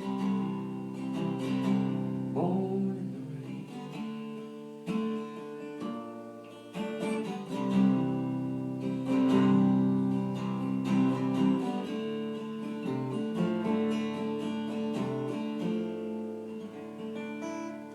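Acoustic guitar playing the closing chords of a live song, chords struck every few seconds and left to ring out.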